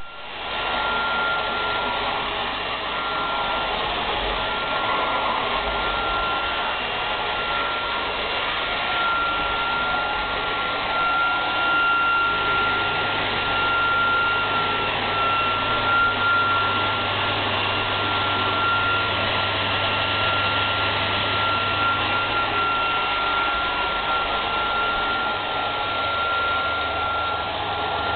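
Dyson DC12 vacuum cleaner running steadily: a loud rush of air with a high, steady motor whine over it.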